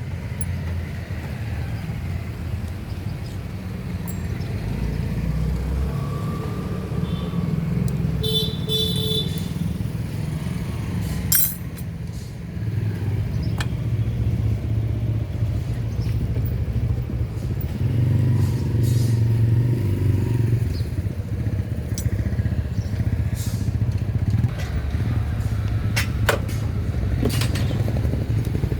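Steady low rumble of motorcycle engines running, with a few sharp metallic clinks of tools on metal.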